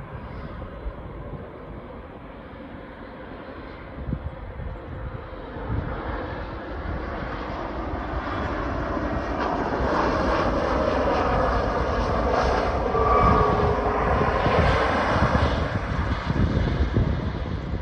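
Boeing 737 MAX 8's CFM LEAP-1B turbofan engines as the jet comes in to land and passes: a rushing jet noise that grows louder through the first half, peaks about two-thirds of the way through with a whine that falls in pitch, then eases off slightly. A low, uneven rumble of wind on the microphone lies underneath.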